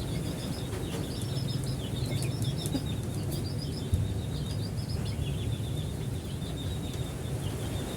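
Many birds chirping in rapid, short high notes without a break, over a steady low rumble of background noise.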